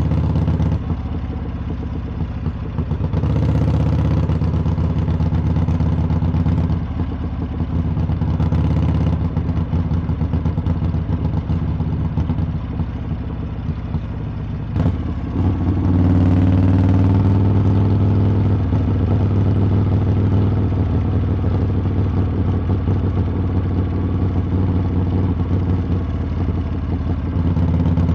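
Harley-Davidson V-twin exhaust while riding. The throttle opens about three seconds in and eases off a few seconds later. A sharp click comes about halfway through, and then the engine pulls harder with rising pitch and holds a steady cruise.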